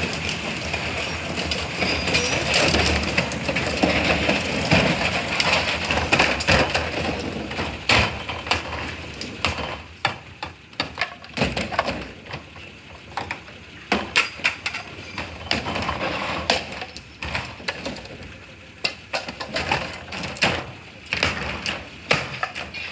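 Steady mechanical noise that fades about ten seconds in, with a long series of sharp knocks and clattering impacts, most of them in the second half.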